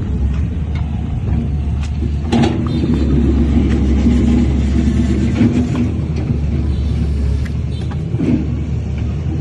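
Heavy diesel engine of earthmoving machinery running steadily, louder through the middle, with a couple of sharp knocks about two and a half seconds in and near the end.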